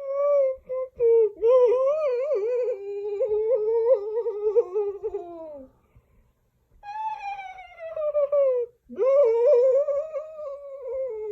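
A high, wavering wailing voice in long drawn-out cries, four of them with short breaks, the longest lasting about four seconds.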